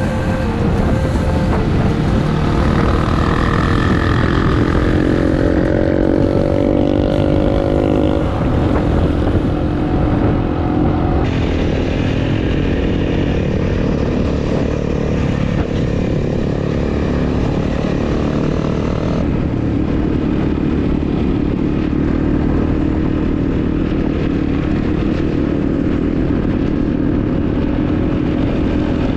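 Motorcycle engine running under way, with heavy wind and road noise; its pitch climbs twice as the bike speeds up.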